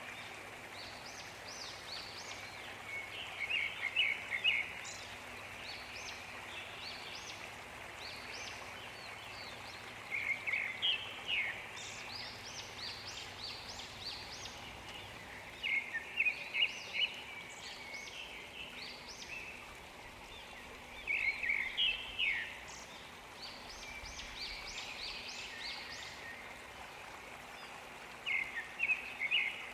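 Songbird repeating a short phrase of quick chirping notes about every six seconds, five times, with other birds chirping more faintly, over the steady rush of a waterfall.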